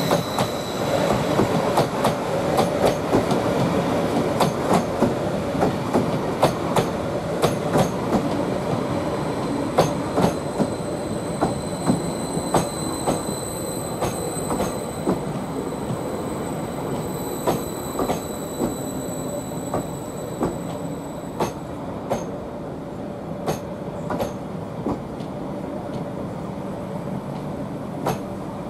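Class 745 electric multiple unit pulling slowly into the platform, its wheels clicking over rail joints and points with a thin high squeal. The clicks space out as it slows.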